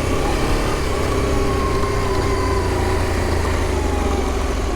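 Adventure motorcycle engine running steadily while riding, its revs easing slowly down, over a low rumble of wind and road noise.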